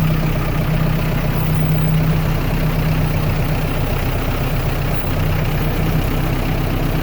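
A heavy engine idling steadily, a low even hum that holds one speed.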